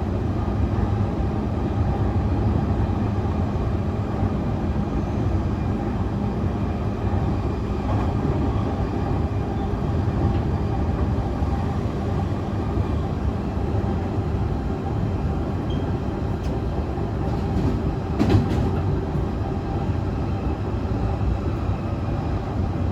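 Onboard sound of a JR East E531 series electric train running at a steady speed: a continuous rumble of wheels on rail with faint steady tones from the drive. There is a sharp knock about eighteen seconds in.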